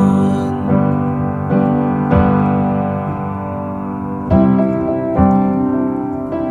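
Piano playing sustained chords, a new chord struck about every second, with one chord held for about two seconds midway: an instrumental passage of a song.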